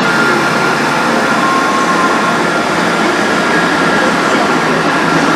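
Diesel multiple-unit train running at the station platform: a loud, steady rumble with thin high tones over it.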